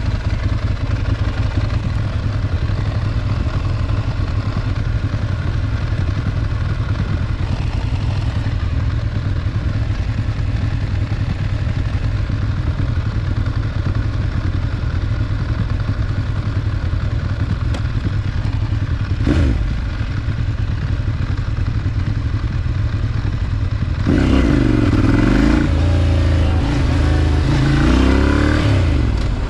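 Ducati Monster 796's air-cooled L-twin engine running steadily at low revs. About 24 s in it gets louder and revs up and down repeatedly as the bike pulls away and shifts through gears.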